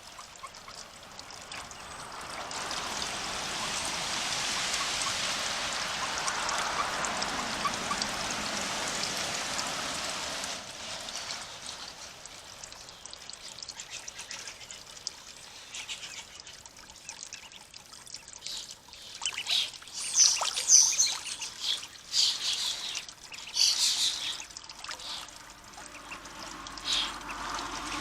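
Water trickling and splashing at a pond, steady for the first ten seconds or so, then broken into a run of short, sharp, high splashes or peeps in the second half.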